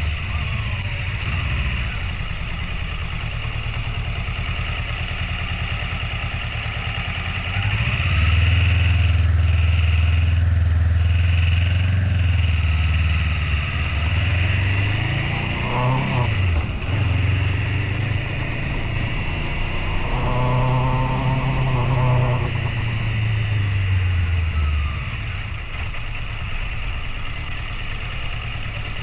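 Motorcycle engine running while being ridden. It gets louder about eight seconds in, and its pitch dips and climbs again around sixteen seconds.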